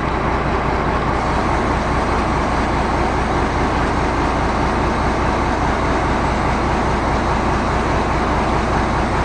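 A 1991 Ford F800's rebuilt six-cylinder diesel engine running under load, driving the boom's hydraulics through the PTO while the boom is lowered. It swells briefly at the start, then holds steady.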